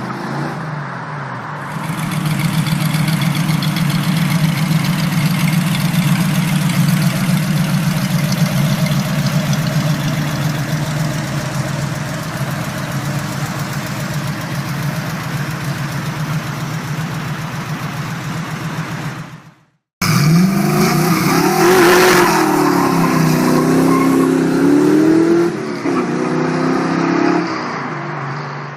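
Muscle car engine running steadily for about twenty seconds. After a short break, an engine revs up and down several times.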